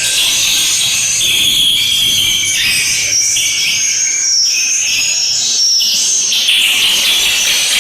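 Swiftlets chirping: a dense, continuous chorus of high twittering calls, as heard in a swiftlet house.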